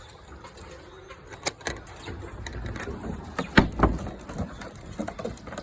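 Chicken coop door and latch being worked open: irregular clattering knocks over low handling rumble, with sharp bangs about a second and a half in and again around three and a half seconds in.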